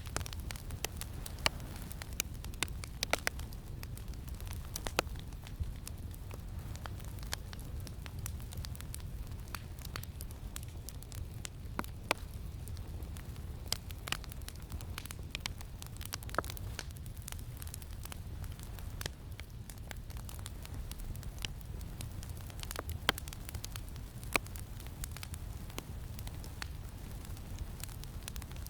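Campfire crackling, with irregular sharp pops and snaps over a steady low wind rumble.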